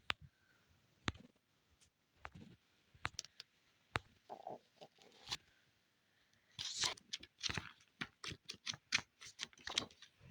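Hands handling the packaging of a K-pop album set: scattered light clicks and taps, then a denser run of crinkling and rustling from about six and a half seconds in.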